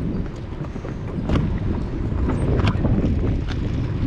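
Wind buffeting the microphone of a GoPro on a moving bicycle, a steady low rush broken by a few sharp clicks.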